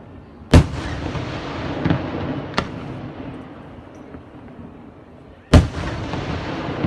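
Aerial firework shells bursting: two loud, sharp bangs about five seconds apart, each with a long rolling echo, and a couple of smaller bangs between them.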